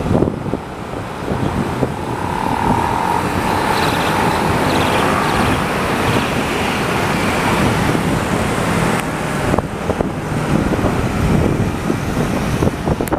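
A fire engine driving past in city traffic, its engine and tyre noise mixed with steady road noise. A single high tone sounds for a few seconds near the start, drifting slightly downward.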